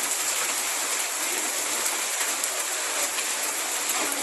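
Hailstorm: hailstones and rain pelting down in a steady, dense clatter of many small impacts.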